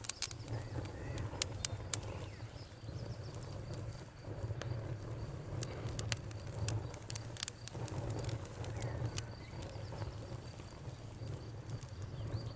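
Wood campfire burning with scattered sharp crackles and pops over a low steady rumble, and crickets chirping steadily in the background.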